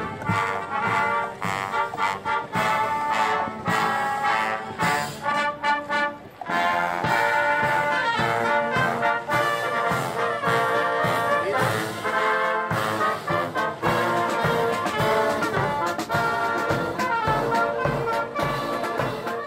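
Brass band music playing, with many sustained pitched notes.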